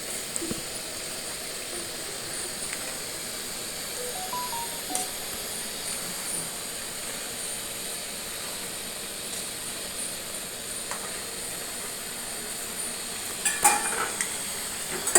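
Steady hiss of food cooking in a pan on a gas stove, with a few clinks of utensils, most of them in a cluster about a second and a half before the end.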